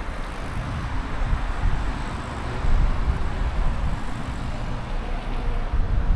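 Wind rumbling on the microphone with city traffic and road noise, recorded from a moving bicycle. The rumble is steady and gusty, with no single event standing out.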